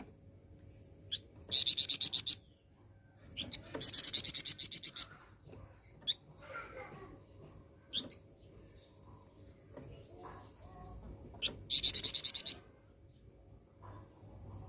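Flamboyan bird giving three short, rapid, buzzy high trills, each well under a second long, with faint scattered chirps between them. This is lure song, used to prompt caged birds to answer.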